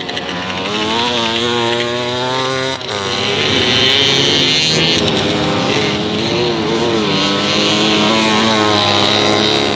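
Small vintage two-stroke motorcycle engines revving hard in a race, the pitch climbing and falling as the bikes accelerate and ease off. There is a brief sudden drop in sound a little under three seconds in.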